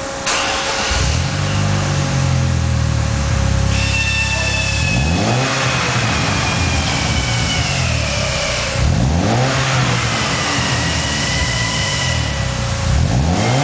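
Vauxhall Vectra 2.0 Turbo engine through an MIJ Performance stainless steel exhaust in a mid sport set-up. It idles, then is revved three times, each rev rising and falling back.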